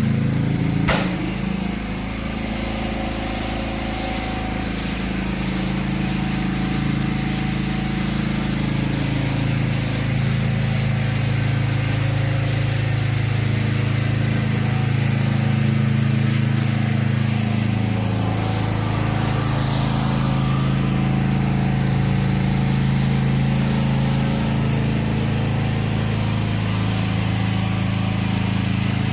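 Gas engine of a pressure washer running steadily under load, with the hiss of water spraying from the wand; a sharp click about a second in.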